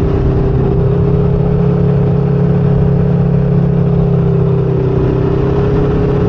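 Motorcycle engine running at a steady cruising speed, its note holding nearly constant, with wind rumbling over the microphone.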